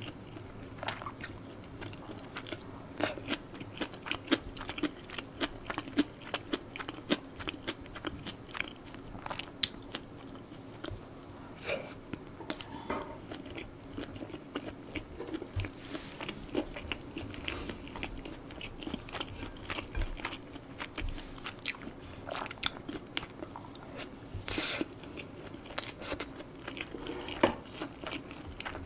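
A mouthful of food chewed close to a microphone: irregular wet clicks and smacks of the mouth, several a second.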